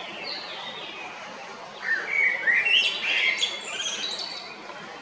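Male common blackbird singing one song phrase about two seconds in: a run of clear notes sliding up and down, ending in higher twittering. Fainter bird chirps come before it.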